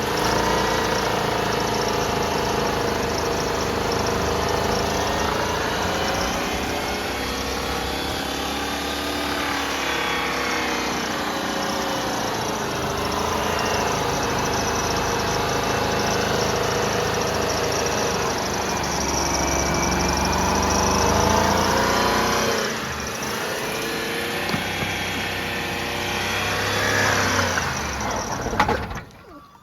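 Ford F-150 pickup engine running under held throttle while it is being fed Coca-Cola, its revs surging up and down as it struggles. Near the end it cuts out.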